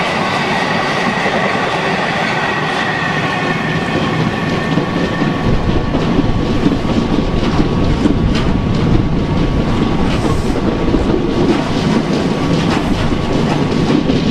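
Sleeper train's coaches running at speed, heard through an open window: a steady rumble of wheels and rushing air, with a high whine that fades over the first few seconds. The low rumble grows heavier about five seconds in, and a few sharp clicks come as the wheels cross rail joints.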